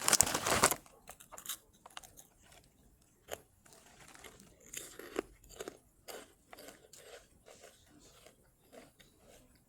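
Kkokkalcorn corn snack cones being crunched and chewed: loud crunching for the first second, then quieter, irregular crunching.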